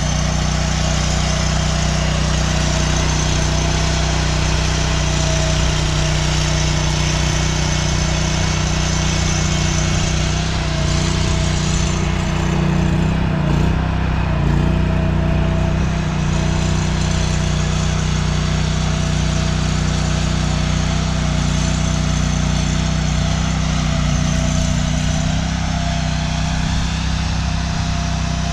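An engine running steadily at a constant speed, a continuous even hum, with a slight change in its sound about halfway through.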